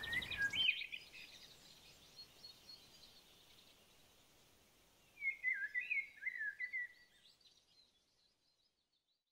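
Small birds chirping and twittering in short phrases: a brief burst at the start and a few quick chirps about five to seven seconds in, over faint background hiss.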